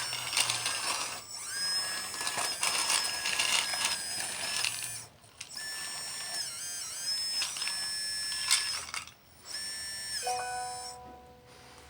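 Electric motor and hydraulic pump whine from radio-controlled construction models. The pitch holds, then steps or glides up and down as the controls are worked, with clicks and rattles from the mechanisms. About ten seconds in, a lower, steady whine takes over briefly, then the sound fades.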